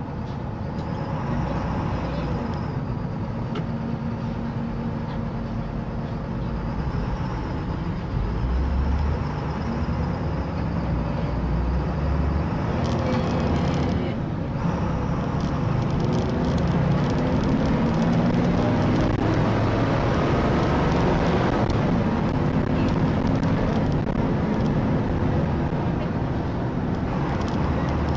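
Steady engine and road noise of a moving car, a continuous low rumble.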